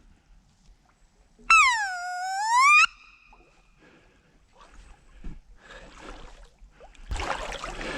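A single loud, high whistled call lasting just over a second, its pitch dipping and then rising again. Near the end, water splashing begins.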